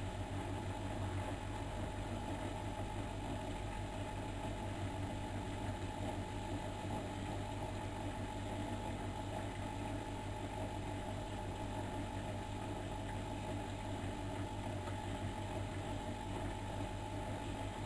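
Miele Novotronic Meteor 2200 washing machine running with a steady, even hum.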